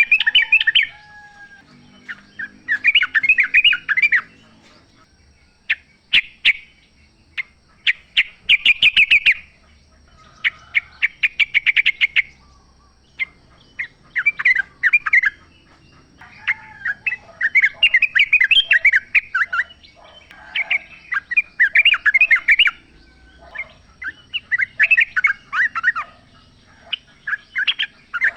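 Yellow-vented bulbul (trucukan) singing in short bubbly chattering phrases, about one every two seconds, with a run of rapid clicking notes around a quarter of the way through.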